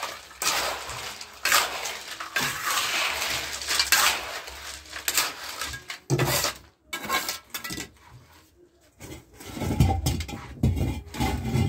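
Metal hand tool scraping and clinking against a hard surface, in a series of short strokes during the first six seconds, then duller knocks and handling noise near the end.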